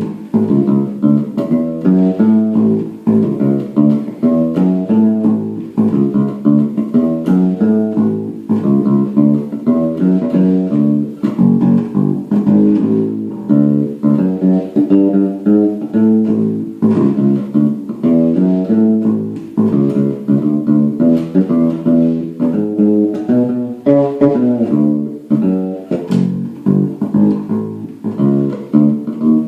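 Homemade fretless electric bass guitar played solo: a continuous run of plucked notes, mostly in the low-mid range.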